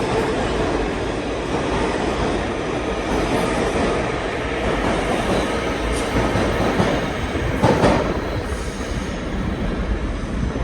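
New York City subway train running on the rails, a steady rumble of wheel and rail noise, with one brief louder squeal or clank about seven and a half seconds in.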